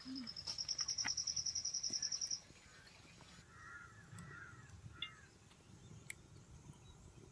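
Bird calls outdoors: a high, even trill of about ten notes a second lasting a little over two seconds, then a few softer chirps.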